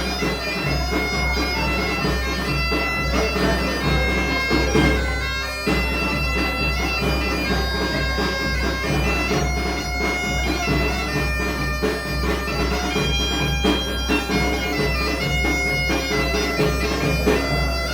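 Galician bagpipe (gaita) playing a tune over its steady drone, with a drum beating time underneath.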